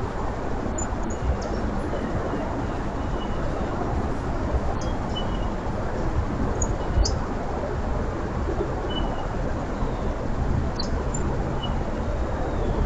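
Steady outdoor rumbling hiss with short, high bird chirps scattered through it and a few faint clicks.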